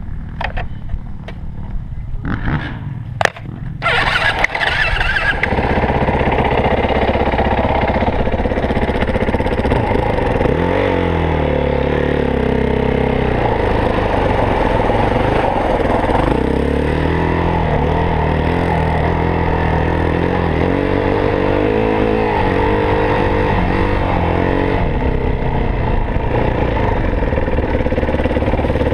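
A few clicks and knocks, then about four seconds in a dirt bike engine catches and runs loud, its pitch rising and falling as it is revved from about ten seconds on.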